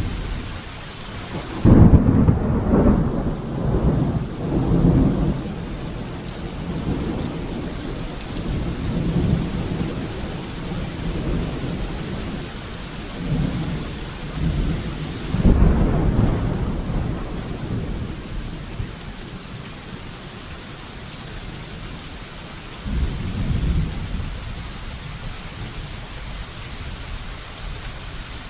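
Steady rain falling, with thunder: a loud rumble breaks out suddenly about two seconds in and rolls on for a few seconds, a second rumble comes about halfway through, and a weaker one near the end.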